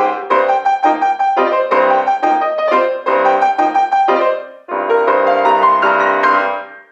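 Piano playing the closing bars of a kolomyika, a fast Ukrainian dance piece, with a short break just past four seconds in, then final chords that die away at the end.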